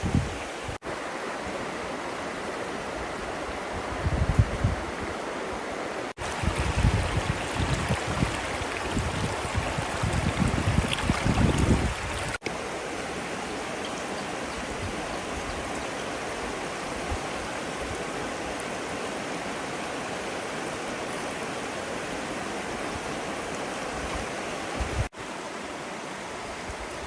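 River water flowing with a steady rushing sound. Low rumbling gusts of wind on the microphone come and go between about four and twelve seconds in.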